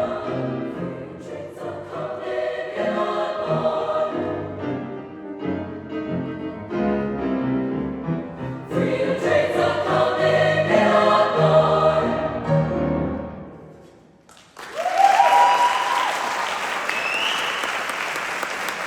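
A large choir singing in harmony, its final chord fading out a little past two-thirds of the way through. The audience then applauds and cheers, with a few whoops.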